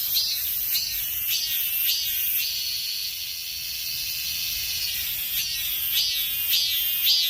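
Cicadas singing: a loud, high-pitched buzz that pulses in a steady rhythm of nearly two beats a second, smoothing into a continuous drone for a couple of seconds in the middle before the pulsing returns.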